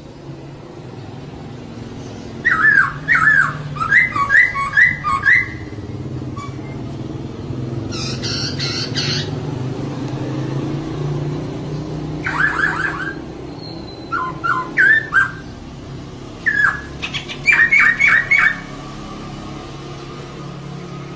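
Female poksay (laughingthrush) calling in five bursts of quick, repeated, down-slurred whistled notes, one burst near the middle harsher and rasping. A steady low hum runs underneath.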